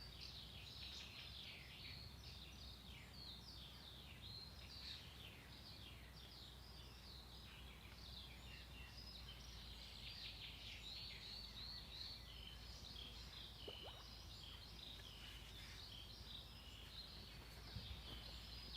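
Faint chirping of small birds: many quick, falling chirps over a low steady hum.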